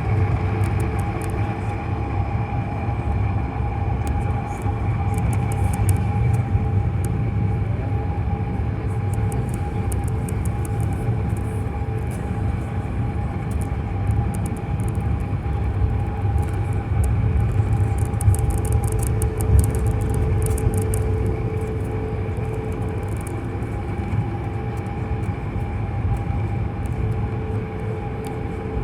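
Airliner cabin noise: the jet engines run steadily over a deep rumble, with several steady engine tones and a few faint clicks and rattles in the middle stretch.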